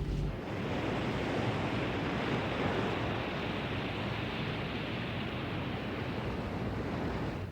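Steady rushing of sea water and wind past a ship under way, cutting in abruptly just after the start and dropping away near the end.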